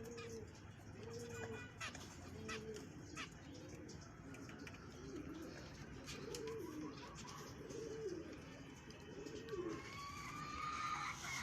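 Pigeons cooing in an aviary: a run of low, arching coos repeating one after another, with a few sharp clicks early on and another bird's higher calls coming in near the end.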